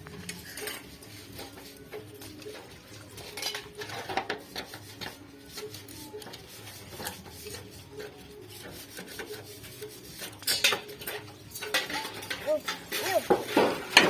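Irregular light taps and clinks of tools on thin sheet steel from an old refrigerator as it is worked into a pot and its folded seams are joined, with a denser run of strikes about ten to eleven seconds in.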